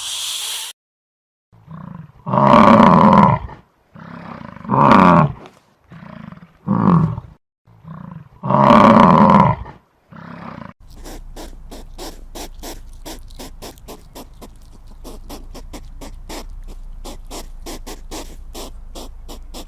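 A big cat roaring: several loud, long roars with shorter calls between them. About halfway through the roars stop and a faint, fast, even ticking takes over.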